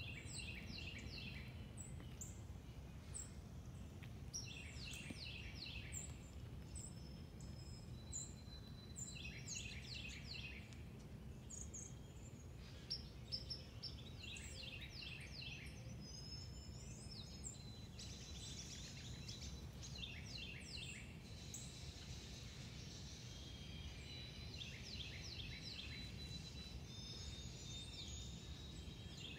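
A songbird singing a short phrase of quick downslurred notes, repeated every few seconds, over a steady low background rumble.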